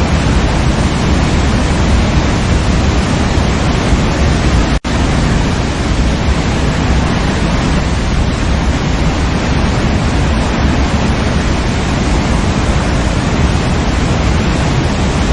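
Waterfall rushing steadily, a dense full roar of falling water, with a momentary dropout about five seconds in.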